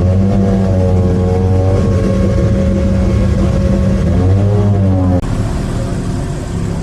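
Car engine running loudly, its pitch swinging up and down twice as it is revved. The sound changes abruptly about five seconds in.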